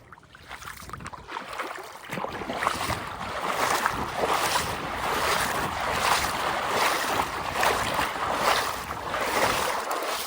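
Wading through cold shallow water: legs swishing and splashing with each step, about two strokes a second, building up about a second in.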